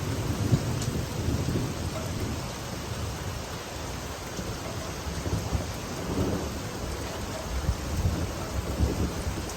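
Steady rain falling, with low rolling rumbles of thunder that swell and fade a few times, strongest near the end.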